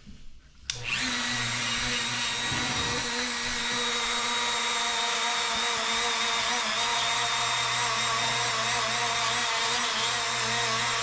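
A small electric power tool motor running at one steady speed. It starts about a second in and cuts off suddenly just before the end.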